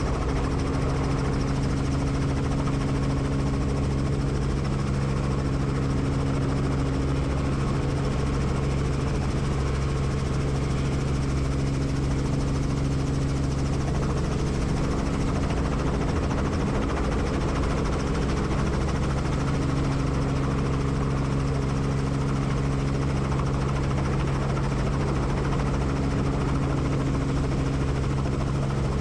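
Helicopter running: a steady, unbroken drone of engine and rotor noise with a constant low hum.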